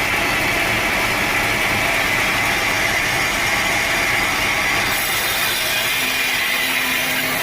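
Sawmill saw running and cutting through a teak log, a loud steady machine noise whose tone shifts about five seconds in.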